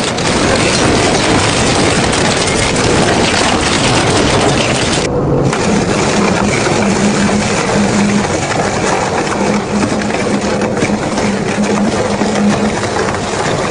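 Double-shaft metal shredder running and grinding scrap metal: a loud, dense, steady mechanical noise. It breaks off briefly about five seconds in, after which a low hum that comes and goes runs under the grinding.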